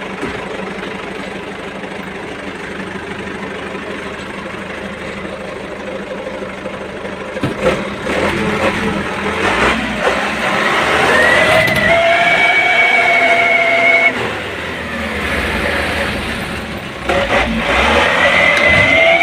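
Heavy truck's diesel engine running steadily, then revved hard twice, each time with a high whine that climbs and then holds for a few seconds.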